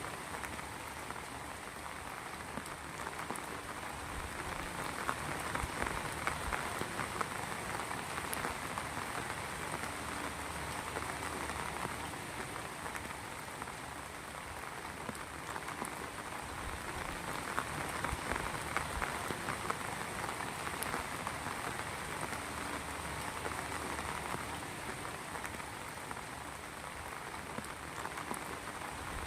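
Heavy rain falling steadily on surfaces, a dense even patter of drops with many small distinct splashes.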